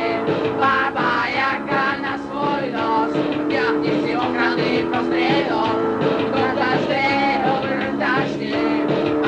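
Punk rock band playing a song with guitar and singing, in a lo-fi recording made on a dictaphone.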